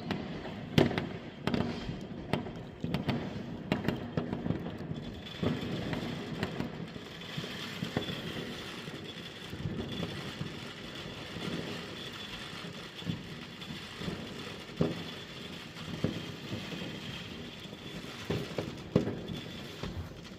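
New Year's Eve fireworks and firecrackers going off all around: a steady crackling din with many sharp bangs at irregular intervals, the loudest about a second in.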